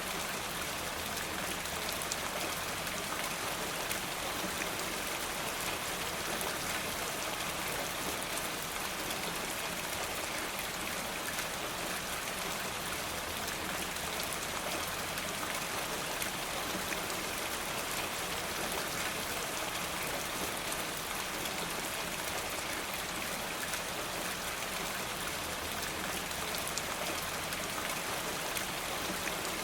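Steady rain falling: an even, unbroken hiss with fine scattered drop ticks.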